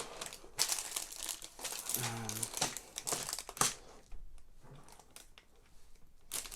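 Plastic parts bags crinkling and rustling as they are handled, in bursts for the first few seconds, then quieter.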